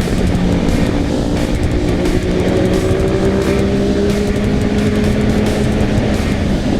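Motorcycle engine pulling through a gear, its pitch rising slowly and steadily, under heavy wind rumble on the microphone.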